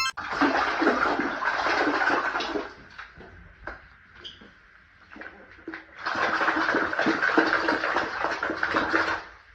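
Water rushing in two bursts, the first about two and a half seconds long, then a quieter gap, then a second burst of about three seconds that cuts off near the end.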